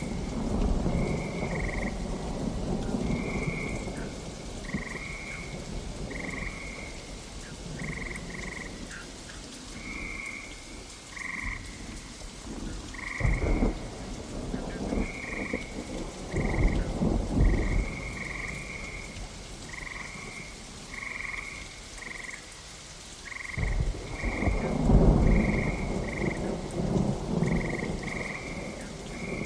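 Thunderstorm with steady rain and several low rolls of thunder, the loudest about two-thirds of the way in. Frogs croak in short calls repeated a couple of times a second throughout.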